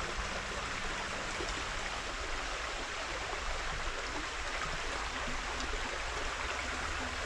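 River water rushing steadily over rocks and through an old stacked-stone dam.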